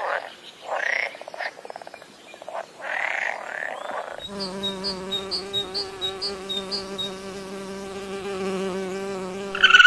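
A frog croaking in short repeated calls for the first four seconds, then a steady buzz of honeybees that takes over about four seconds in and runs on.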